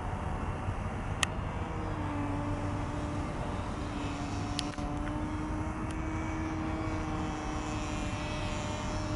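Small 10-class engine of a radio-controlled model airplane running steadily in flight, its pitch drifting slightly up and down. A sharp click about a second in.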